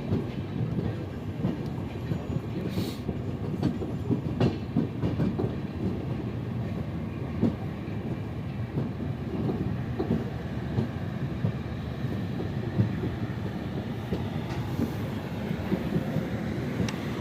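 Golden Temple Mail passenger train's coaches rolling on the track: a steady rumble with irregular clicks and knocks of the wheels over rail joints.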